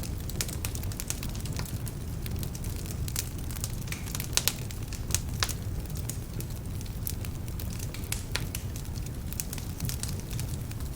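Wood fire burning in a fireplace: a steady low rumble of flame with frequent irregular sharp crackles and pops, a few louder ones about four to five and a half seconds in. The logs are somewhat damp, which makes them crackle.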